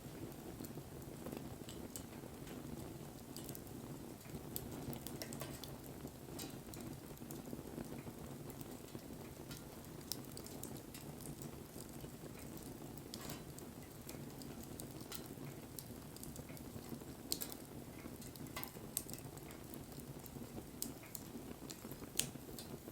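Wood bonfire burning: a steady low rush of flame with scattered sharp crackles and pops, a few louder snaps in the last third.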